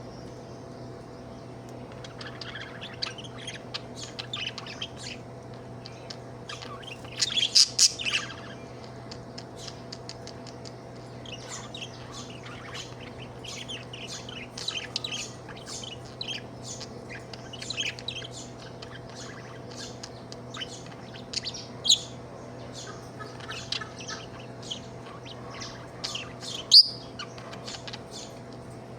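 Budgerigar chirping in quick runs of short, high chirps, with a louder flurry about seven seconds in and single sharp chirps later on.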